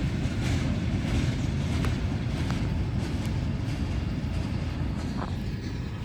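Freight train cars rolling past on the track, a steady rumble that eases slightly toward the end.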